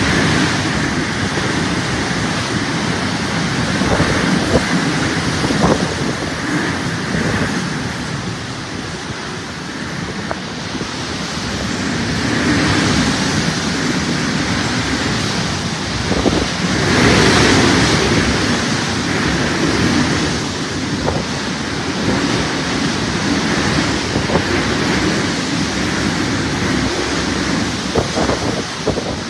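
Strong gusting wind with rain, buffeting the microphone, typical of a hurricane. The noise swells in louder gusts about twelve seconds in and again a little later.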